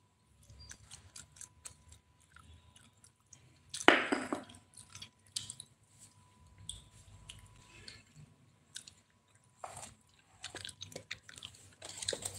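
Someone chewing food close to the microphone: soft, irregular mouth clicks and smacks, with a louder burst about four seconds in.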